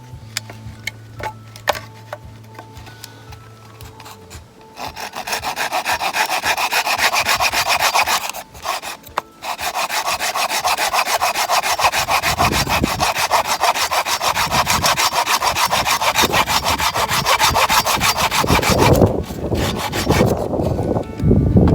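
Hand saw cutting through a piece of firewood with fast, even strokes, starting about five seconds in after a few light knocks, with a brief pause of about a second soon after it starts.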